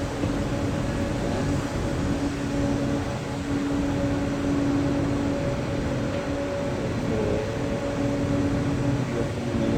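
Steady machinery drone at the boiler of a coal-fired power plant: a constant rushing noise with a low hum held on one pitch.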